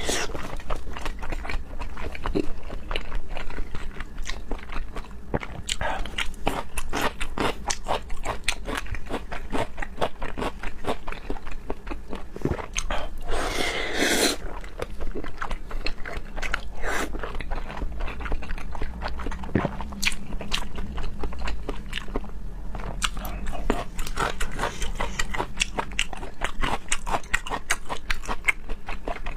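Close-up chewing and biting of raw seafood: a steady run of wet mouth clicks and smacks, with a longer noisy burst about halfway through.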